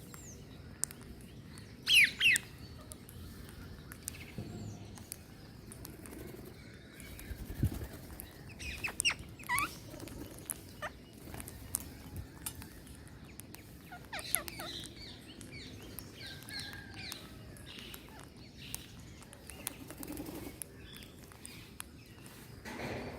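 Green parrots calling: two loud, harsh sweeping shrieks about two seconds in, a quick series of calls around nine to ten seconds, and another run of calls around fourteen seconds, with scattered small clicks between.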